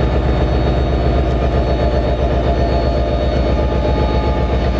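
A New Jersey Transit train passing close by: a loud, steady rumble with a fast flutter in it and a few faint steady tones above.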